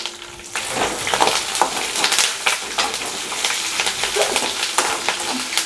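Curry leaves and chopped ginger sizzling and crackling in hot oil in a kadai of peanuts, dal and chillies, picking up about half a second in, while a perforated metal ladle stirs and scrapes through the pan. This is the tempering for mango rice.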